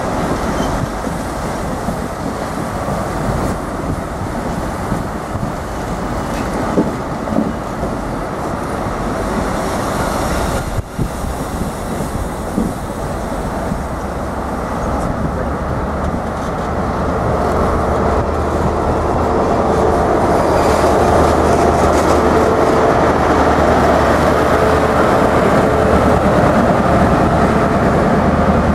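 InterCity 125 (Class 43 HST) passing close by: its Mark 3 coaches rumble and clatter over the rail joints. Over the last third the diesel engine of its power car grows louder and steadier as the power car draws level.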